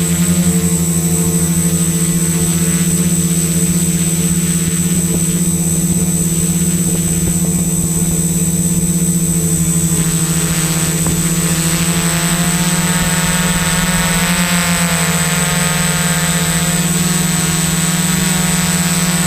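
Electric motors and propellers of an XAircraft X650 Pro V4 quadcopter in flight: a steady, loud hum of several pitches with a constant high whine over it. About three quarters of the way through, the pitches dip and then rise again as the motors change speed.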